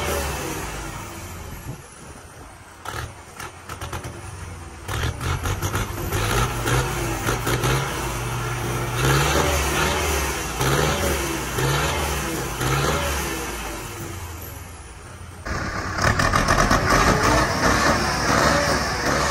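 Perkins diesel engine of an Erkunt Haşmet 110 tractor revved in quick throttle blips, the exhaust rising and falling about once a second. About three-quarters of the way through it jumps suddenly to loud, sustained high revs.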